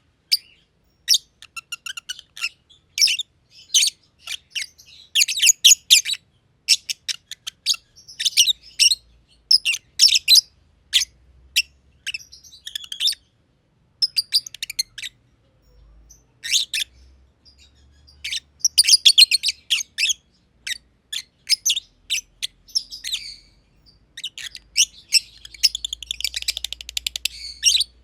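Black-masked lovebirds, a green and a green pied, chirping: quick runs of sharp, high chirps broken by short pauses, with a fast, buzzy chatter near the end.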